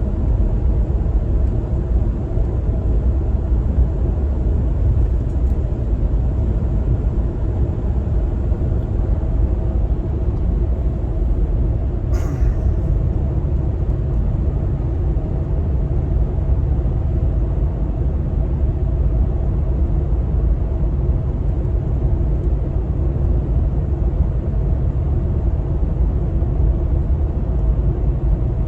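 Truck carrying a camper driving at steady speed: a constant engine and road rumble. A single brief click about twelve seconds in.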